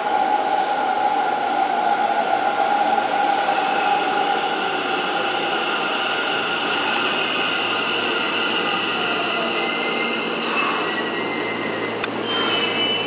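Electric commuter train arriving at an underground station platform and braking, its wheels squealing in several steady high tones over the rumble of the train in the tunnel, the lowest tone slowly falling in pitch.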